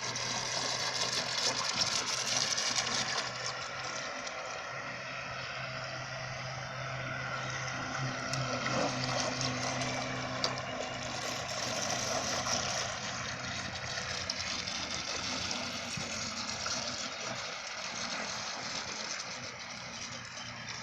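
Radio-controlled fishing bait boat running on the water: a steady rushing hiss from its motor and the water, with a low hum under it that fades out about halfway through.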